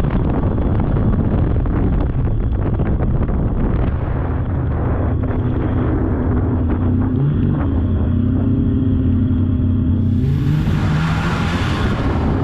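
Polaris snowmobile engine running while riding, its pitch stepping up a couple of times in the second half as it speeds up. About ten seconds in, a rushing noise swells for roughly two seconds over the engine.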